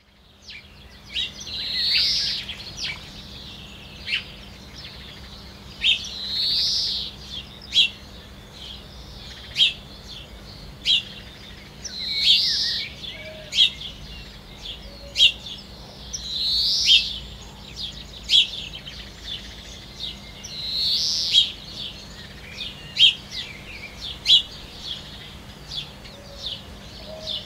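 Birds singing: a loud, high song phrase repeats about every four to five seconds, with short sharp chirps in between.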